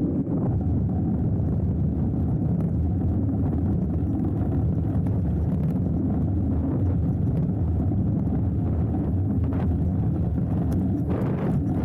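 Steady wind and tyre rumble from a hardtail mountain bike rolling down a dirt trail, heard through an action camera's microphone. A few short rattles or knocks come near the end.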